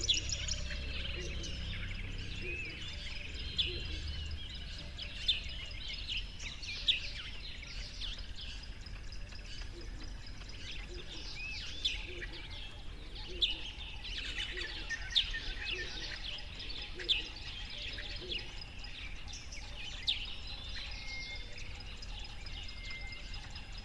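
Birds chirping and calling, many short gliding notes overlapping, with a louder sharp call every second or two.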